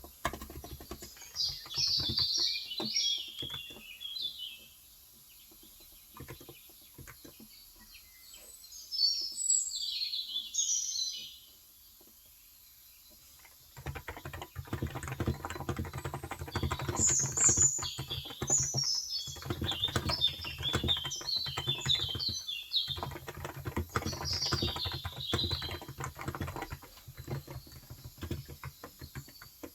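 Typing on a Cox Endeavor electro-capacitive tenkeyless keyboard with 35 g switches: sparse keystrokes at first, then steady continuous typing from about halfway through. A bird sings over it in repeated bursts of high chirps, the loudest sounds here.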